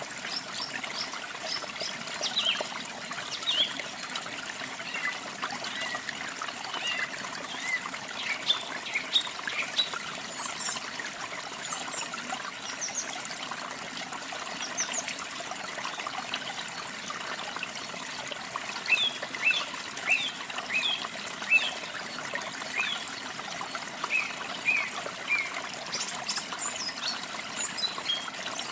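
Running water trickling steadily, with small songbirds chirping over it in short, sharp high notes that come in scattered clusters.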